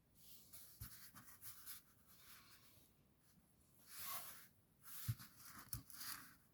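Faint, scratchy strokes of a paintbrush on a rock, in short bursts, with a few soft low knocks as the brush or rock is handled.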